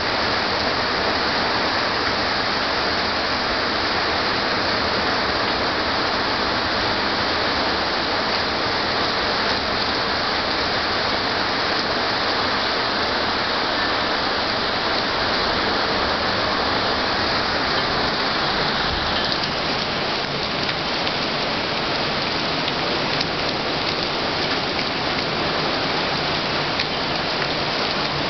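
Heavy thunderstorm rain pouring down steadily as a dense hiss. About two-thirds of the way through, the hiss thins and separate drop hits stand out more.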